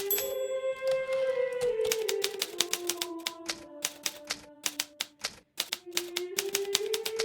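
Hermes Baby portable typewriter being typed on, a quick run of sharp key strikes several per second with a brief pause about five seconds in. Under the keystrokes runs a low sustained tone that shifts in pitch.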